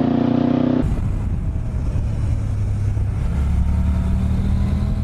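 A motorcycle engine running at high revs with a steady pitch cuts off abruptly about a second in. A low, steady engine rumble follows.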